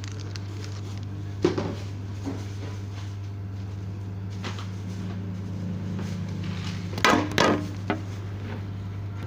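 Objects knocking and clattering as they are handled and set down while slime is being mixed: a single knock early, then a quick cluster of knocks about seven seconds in. A steady low hum runs underneath.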